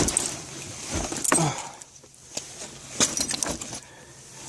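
Keys jangling, with a few sharp clunks and knocks. The loudest knock comes about three seconds in.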